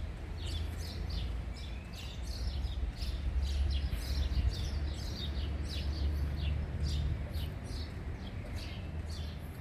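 Small birds chirping over and over, many short high chirps through the whole stretch, above a steady low rumble.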